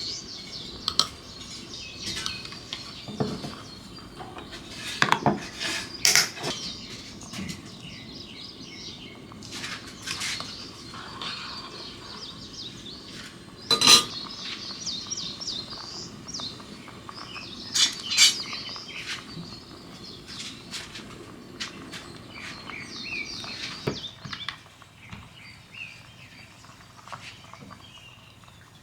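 Dishes and cutlery clinking and knocking now and then, the sharpest knock about halfway through, with birds chirping in the background.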